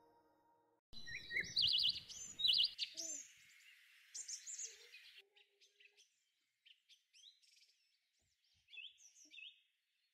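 Small songbirds chirping and trilling, starting about a second in with a busy burst of calls, then thinning out to scattered chirps.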